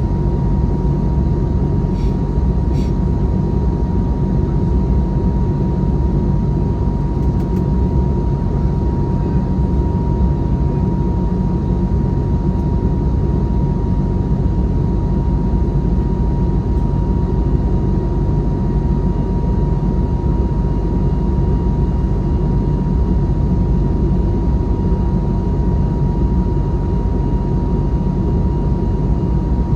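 Airbus A321neo engine and airflow noise heard inside the passenger cabin: a steady, loud low rumble with a constant high tone running through it.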